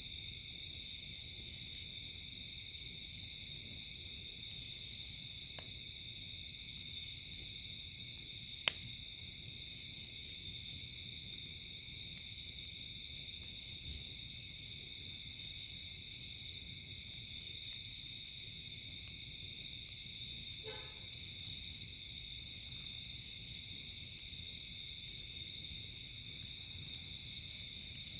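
Steady night-time chorus of crickets, with a few sharp pops from a crackling campfire, the loudest about 9 seconds in.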